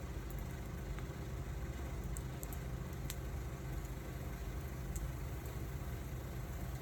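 Wood fire burning with a steady low rumble and a few sharp crackles, the clearest about three seconds in.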